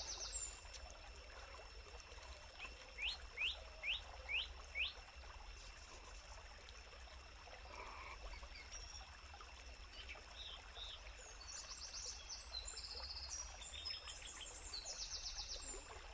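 Forest birds calling: five quick rising chirps about three seconds in, and high, rapid trilling calls near the start and over the last few seconds, over a faint steady background hiss.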